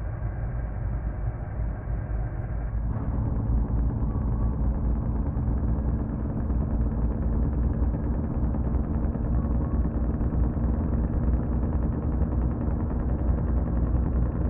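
Truck engine running steadily with a rapid low rattle, getting louder and fuller about three seconds in.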